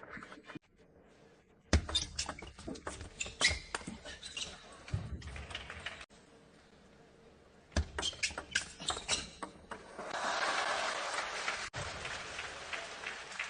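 Table tennis ball being hit back and forth, sharp clicks of racket strikes and table bounces in two quick rallies with a pause between them. A short burst of crowd applause follows the second rally, and the clicks start again near the end.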